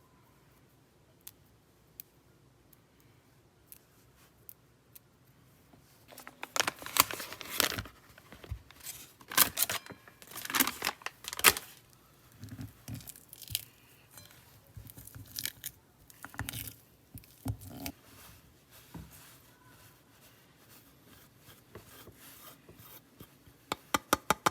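Bursts of tearing and crinkling noise over several seconds, among scattered light clicks and knocks, with a quick run of sharp clicks near the end.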